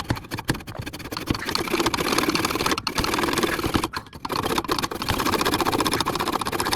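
Hacksaw cutting through a steel exhaust pipe to remove the muffler, in quick repeated strokes with two brief breaks, about three and four seconds in.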